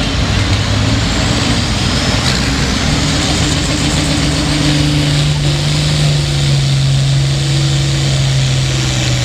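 International Harvester 956 tractor's six-cylinder diesel engine running hard under full load as it pulls the sled, a loud steady drone whose pitch steps up about halfway through.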